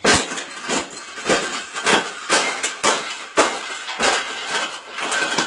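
Wire bird cage being bent and folded by hand: a run of irregular metallic clanks and rattles, with a faint ringing after some of the knocks.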